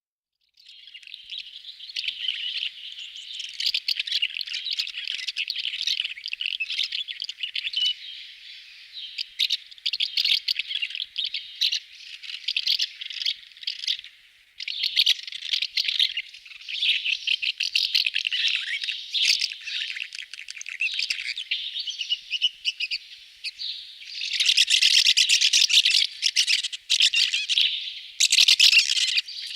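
Birds chirping and twittering in a dense, continuous chatter, growing louder in the last few seconds.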